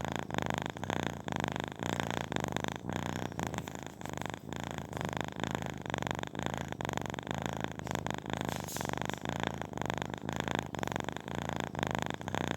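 A kitten purring steadily at close range, the purr swelling and easing about once a second with each breath in and out.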